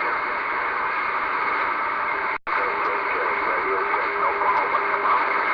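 CB radio receiver hissing with band static, with faint, garbled voices of distant stations in the noise. The audio cuts out for an instant a little under halfway through.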